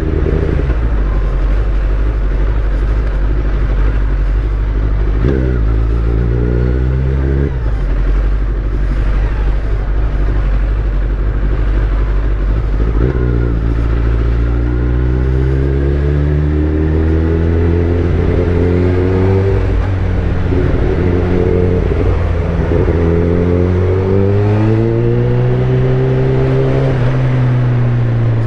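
Kawasaki ZX-10R's inline-four engine through a full Akrapovic titanium exhaust, accelerating through the gears. The pitch climbs in several runs and drops at each upshift, with steadier running in between.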